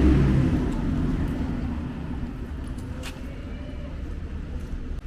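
A road vehicle passes close by. Its low engine sound is loudest at the start and fades steadily as it moves away.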